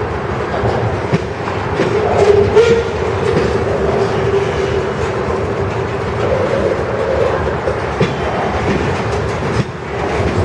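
Freight train cars rolling past with a steady rumble, their wheels clacking over rail joints. A wavering tone rises out of it twice, about two seconds in and again a few seconds later.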